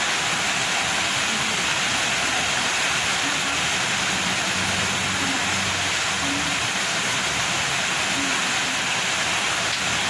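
Heavy tropical downpour: a steady, dense hiss of rain pouring down.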